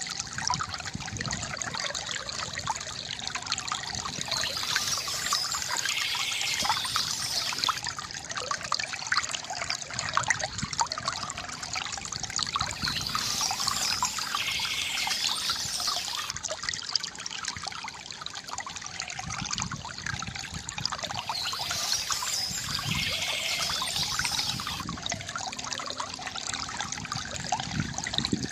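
Small stream trickling and splashing steadily over stones.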